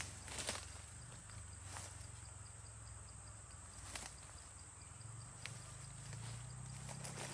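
Faint jungle ambience: a few soft scattered rustles or steps on the forest floor and a faint, even ticking, like an insect, about midway.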